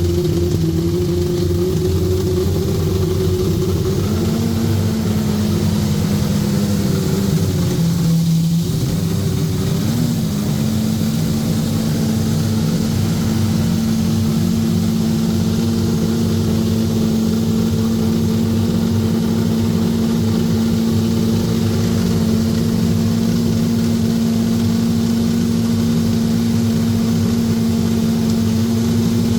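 Engine of a Williams FW29 Formula 1 car running steadily at warm-up idle. Its speed steps up slightly about four seconds in, dips briefly around eight seconds, then settles at a steady, slightly higher speed.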